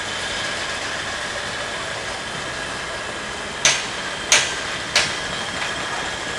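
Steady background noise with three sharp clicks about two-thirds of a second apart, a little past the middle.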